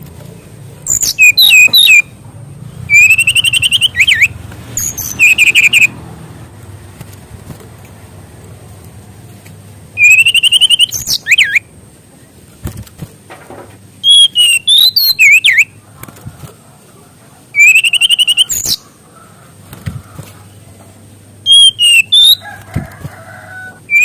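SRDC (sikatan rimba dada coklat) songbird singing loud, high-pitched phrases of rapid trills and whistles, each a second or two long, with pauses of a few seconds between them.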